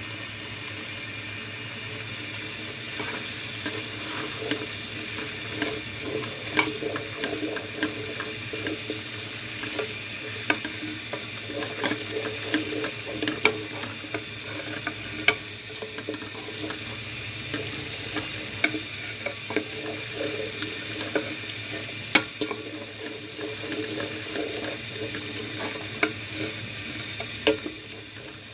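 Kitchen clatter: a utensil repeatedly clicking and scraping against cookware, over a steady hiss.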